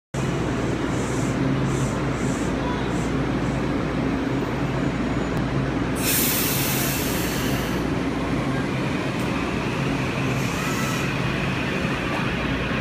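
Electric train at a station platform: steady running noise with a low hum. A louder hiss comes in about six seconds in and lasts about two seconds.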